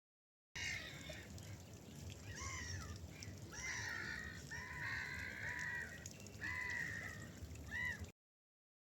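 Gulls calling over a river: a series of harsh, arching calls, several drawn out, over a low steady rumble. The sound cuts in about half a second in and cuts off abruptly just before the end.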